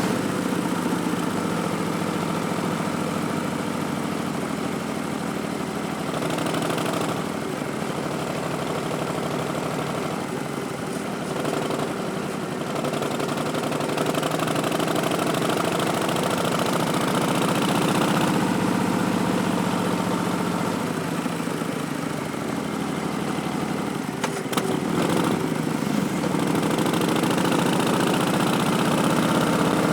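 Harley-Davidson Street Bob's Milwaukee-Eight 107 V-twin running through Vance & Hines Twin Slash slip-on mufflers, its pitch shifting up and down with the throttle. A few short clicks come near the end.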